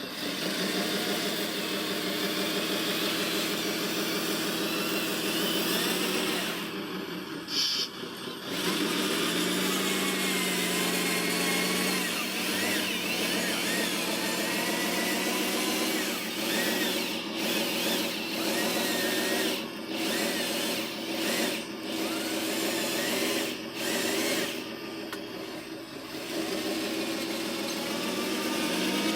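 Small electric motors of radio-controlled construction vehicle models whining as they work, the pitch shifting up and down, with a few brief drops and dips in level partway through.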